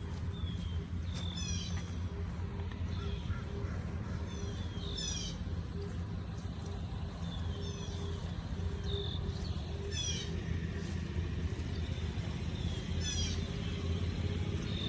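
Birds calling: short, quick runs of high notes that repeat every few seconds, over a steady low rumble.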